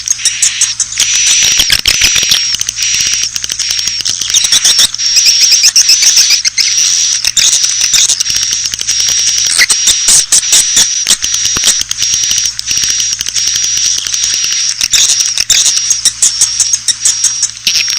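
Swiftlets chirping in a dense, continuous stream of rapid high twittering calls and clicks: a swiftlet lure-call recording of the kind played to attract birds to a swiftlet house.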